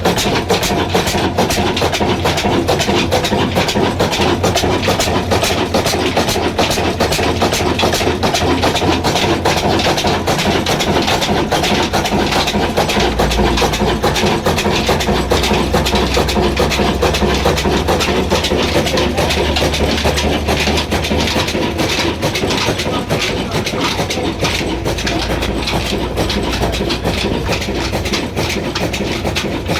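Old Ruston diesel engine running steadily with a rapid, even clatter and a low hum underneath.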